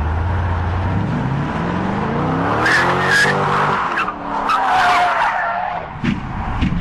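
A car engine revving, rising in pitch as it accelerates, then tyres squealing twice, each squeal lasting about a second.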